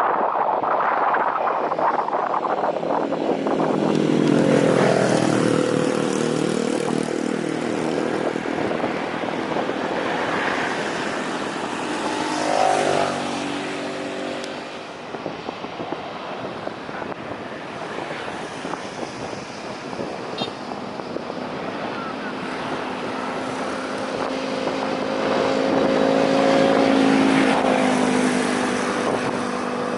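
Engines passing by twice, each with a pitch that drops as it goes past, over a steady rushing noise. A steady engine tone then builds near the end.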